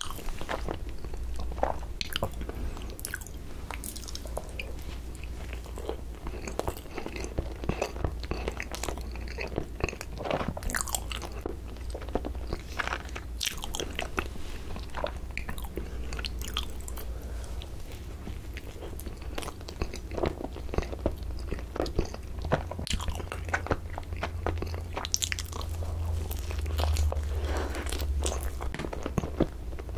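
Close-miked eating of soft cream-filled Korean cream bread: chewing with many short wet mouth clicks and smacks, over a steady low hum.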